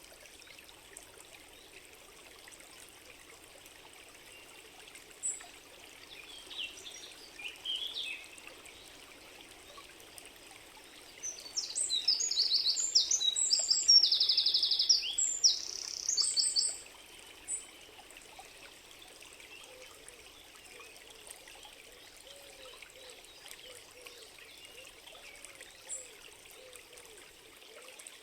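Steady trickling of a small stream, with a songbird singing a fast, high-pitched run of notes for several seconds in the middle, the loudest sound here, and a few short chirps a few seconds before it.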